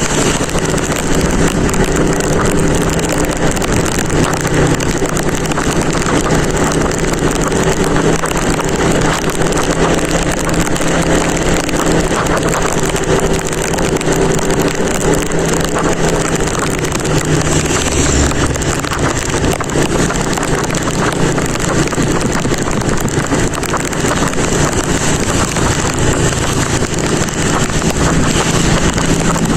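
Motorcycle engine running at a steady cruising pace, under heavy wind rush on the microphone.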